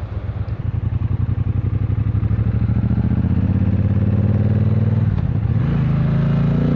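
Triumph Bonneville Bobber's 1200 cc parallel-twin engine pulling under way, its note rising steadily, dropping sharply at a gear change about five seconds in, then climbing again.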